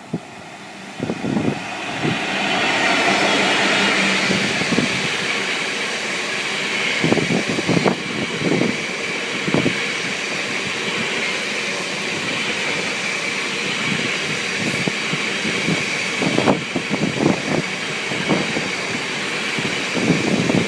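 A train passing close by, a steady rolling rush with a high ringing note from the rails. Bursts of wheels knocking over rail joints recur throughout.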